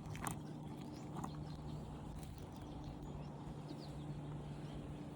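Quiet outdoor background with a faint steady low hum and a few faint high chirps.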